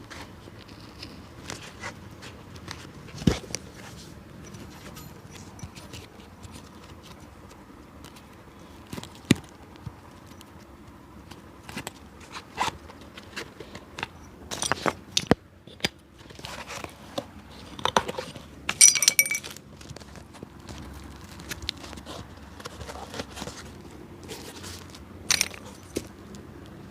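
A street cobbler's hand tools working on a shoe: scattered, irregular clicks, knocks and scrapes over a low steady background, with the loudest flurry of clicks about two-thirds of the way in.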